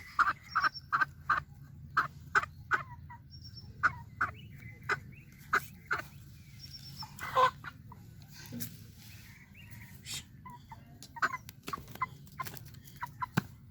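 Domestic hen clucking in a quick run of short, sharp calls, with one longer, louder squawk about seven seconds in.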